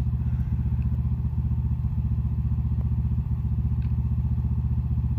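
Briggs & Stratton Q6500 inverter generator running steadily with an even low pulsing engine hum, heard from about 14 feet away.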